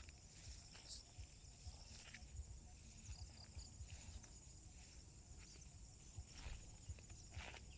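Faint steady high-pitched chirring of insects, with a few soft footsteps scuffing on the ground, two of them near the end.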